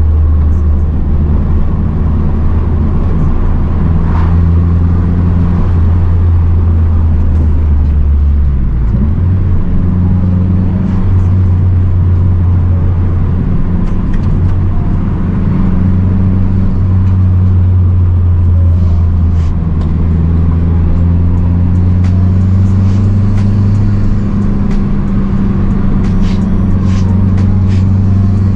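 Mazdaspeed 3's turbocharged 2.3-litre four-cylinder with aftermarket intake and cat-back exhaust, driving along at steady revs. The engine note shifts about nine seconds in and rises slowly in the second half.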